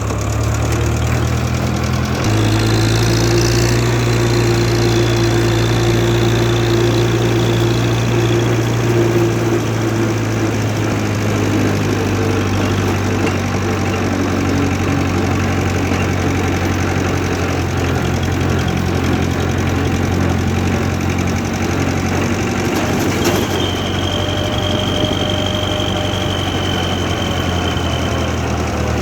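International Harvester McCormick 444 tractor engine running steadily. Its note changes about two seconds in, and a faint higher whine comes and goes over it.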